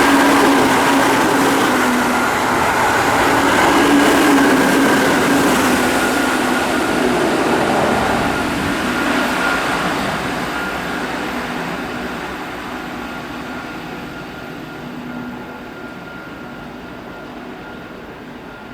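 Keihan 6000 series electric train running through the station at speed. Its motor whine and wheel-on-rail noise are loud at first and fade steadily as it moves away.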